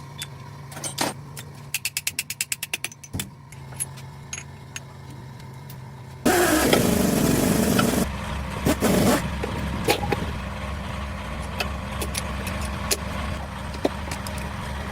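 A motor in a workshop starts abruptly with a loud burst about six seconds in and then runs steadily. Before it, a low hum with scattered clicks and a quick rattle of a dozen or so clicks.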